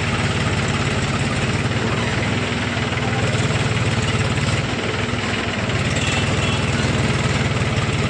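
Tractor's diesel engine running steadily, with a fast, even beat of firing pulses, while hauling a load of paddy sacks.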